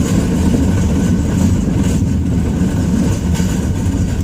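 Ram 2500's Cummins inline-six turbodiesel running steadily, heard from inside the cab.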